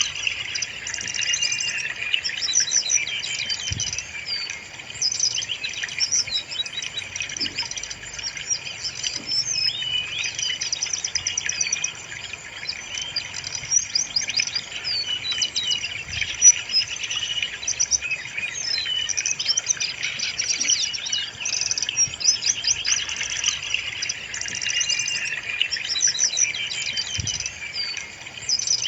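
Brown-chested jungle flycatcher (sikatan rimba dada coklat) singing: a continuous stream of rapid, high twittering and warbling phrases with no real pauses.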